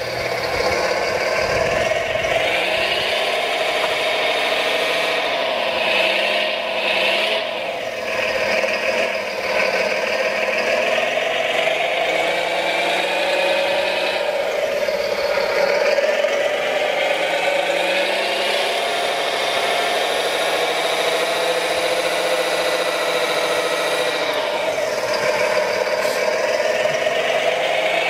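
Electric motors and gearboxes of radio-controlled construction models whining steadily, their pitch rising and falling as the machines speed up and slow down, with some rattle.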